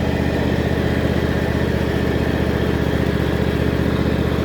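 Engine of a small vehicle with little tires running at a steady speed, its firing pulses fast and even.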